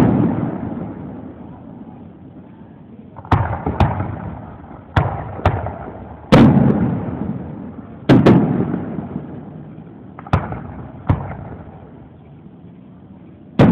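Aerial fireworks shells bursting overhead: about eight sharp bangs at irregular spacing, a pair coming close together, each trailing off in a rolling echo that dies away.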